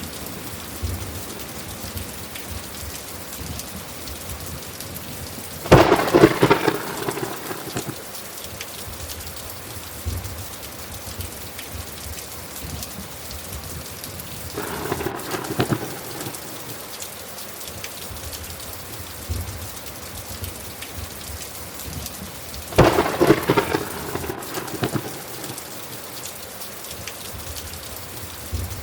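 Thunderstorm: steady rain falling, with three thunderclaps about six, fifteen and twenty-three seconds in. The first and last claps are the loudest, and the middle one is softer.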